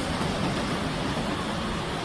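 Steady rushing of falling water from a waterfall, an even noise with a heavy low end.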